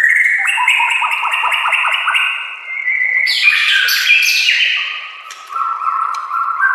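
White-rumped shama (murai batu) singing a varied, fast-changing song: a quick run of repeated notes, then a burst of sharp, high sweeping notes, then lower held buzzy phrases near the end.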